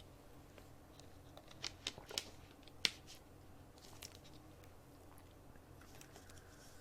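Quiet room hum with a handful of faint, sharp clicks and small handling noises, bunched between about one and a half and three seconds in, the loudest near three seconds.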